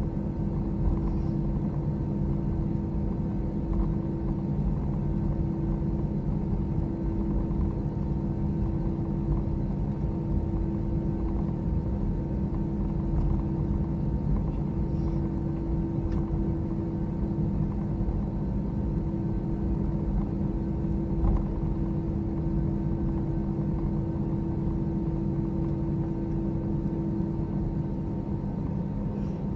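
Cabin noise of an Airbus A321 taxiing after landing: a steady low rumble of the engines at idle, with a few constant low hums, one of which fades out near the end.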